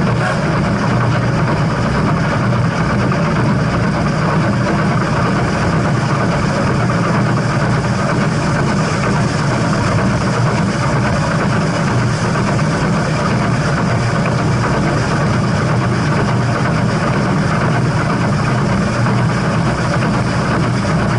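Steam train running steadily: a loud, even rumble with no whistle and no distinct beat.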